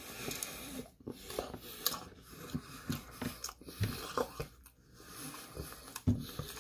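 Close mouth sounds of a person biting into and chewing a slice of pizza, with irregular soft clicks throughout and audible breathing.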